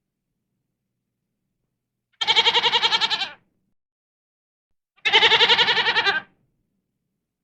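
An animal calling twice: two wavering, pitched calls of a little over a second each, about three seconds apart.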